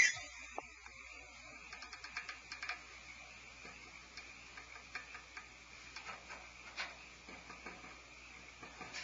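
Faint scattered clicks and scratches, with a small cluster of them a couple of seconds in, over a faint steady high hiss. A brief hiss comes at the very end.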